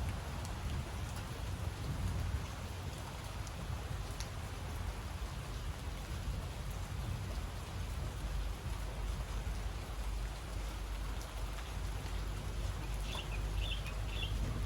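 Steady rain falling, with a low rumble underneath. Near the end a bird gives three short high chirps.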